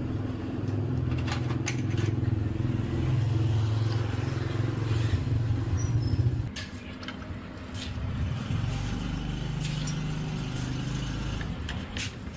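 An engine running steadily with a low hum. About six seconds in it drops sharply in level, then runs on more quietly, with scattered sharp clicks or knocks over it.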